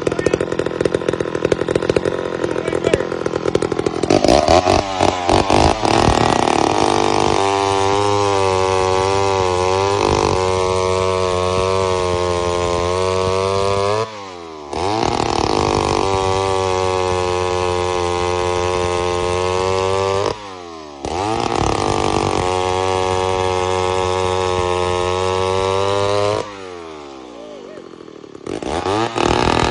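Vintage McCulloch 250 two-stroke chainsaw running, its engine uneven and rough for the first few seconds, then held at steady high revs. Its engine speed drops off sharply three times: about halfway through, two-thirds through and near the end, each time coming back up to full speed.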